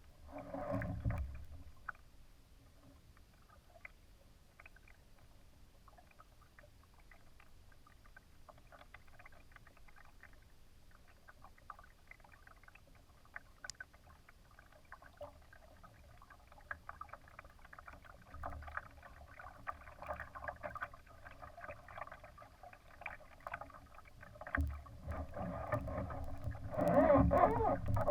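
Water splashing and rushing against the hull of a Laser sailing dinghy under way, as an irregular crackle, louder about a second in and again over the last few seconds.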